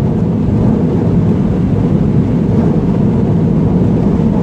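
Steady rumble of road and engine noise inside a vehicle cruising at highway speed.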